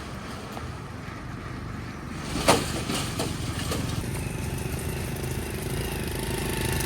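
Motorbike engine running steadily, growing a little louder towards the end, with one sharp knock about two and a half seconds in and a few fainter clicks after it.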